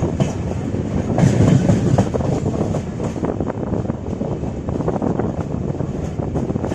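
Passenger train coaches running along the track, heard from on board: a steady rumble of wheels and rails with rattling and clicks, swelling slightly about a second in.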